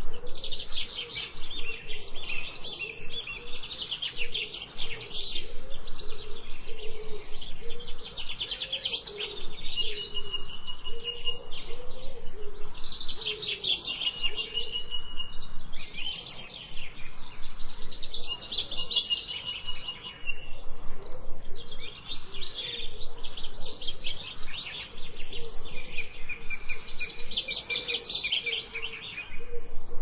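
Songbirds singing and chirping: bursts of rapid, high chirps and trills a few seconds long, repeating again and again, some ending in a held high note.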